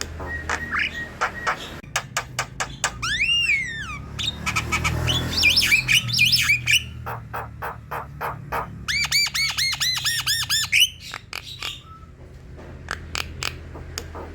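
Javan myna singing: a string of sharp clicks, a falling whistle, harsh chattering notes, then a quick run of about eight repeated whistled notes a little past the middle.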